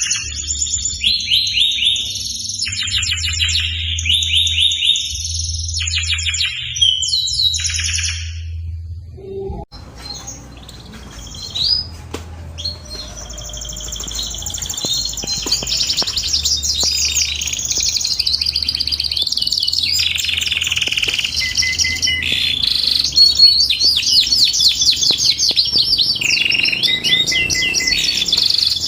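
Canary singing long runs of rapid high trills and rolling phrases. The song breaks off briefly about a third of the way in, then resumes and carries on unbroken.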